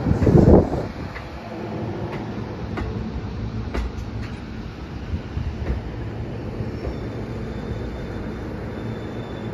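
Sotetsu 12000 series electric train rolling slowly into the station: a steady low rumble with scattered sharp clicks from the wheels over the points, and a loud rumbling surge in the first half second. From about seven seconds in, a thin, steady high whine sounds as it slows to a stop.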